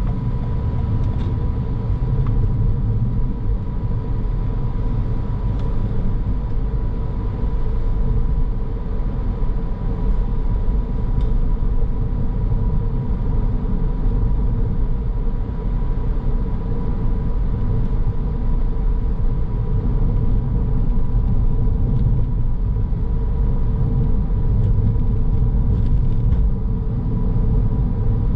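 A car driving: steady low road and engine rumble, with a thin, steady high tone running throughout.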